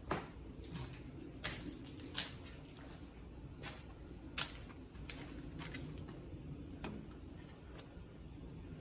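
Gray squirrels cracking and gnawing their food: sharp, irregular clicks and cracks, about a dozen, mostly in the first seven seconds.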